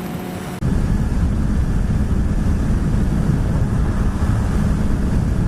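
Motorcycle at highway speed, about 80 mph: wind rushing over the microphone with engine and road noise, steady and loud. About half a second in, the sound jumps abruptly louder and rougher.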